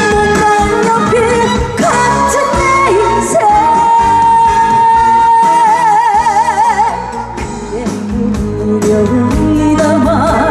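Korean trot song performed live: a singer's voice over a full band backing. About three seconds in, one long note is held steady, then wavers in a widening vibrato before it ends about seven seconds in.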